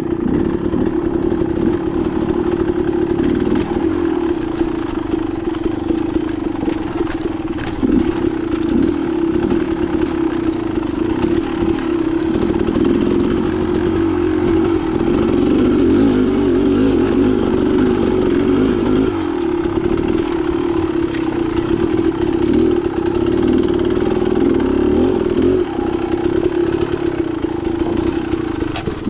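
Dirt bike engine running under way on a rocky single-track trail, its note holding steady with small rises and falls of the throttle, and a sharp knock about eight seconds in.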